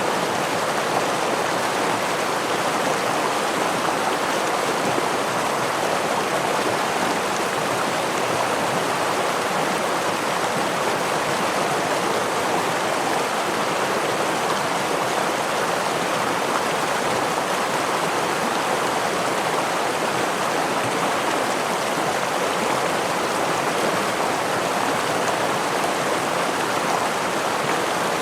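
Stream water running over a small waterfall: a steady, even rush of water.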